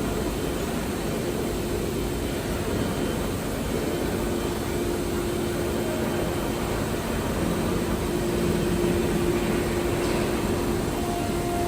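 CNC router machining a wooden door panel: the spindle's steady tone over a steady rush of cutting and extraction noise.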